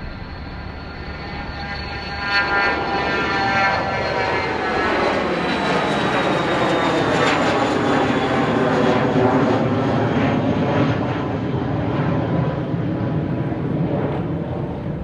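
A fixed-wing aircraft passing close by. Its engine tones slide steadily lower in pitch as it goes past over a broad rush of noise. It grows louder over the first few seconds, stays loud, and starts to fade near the end.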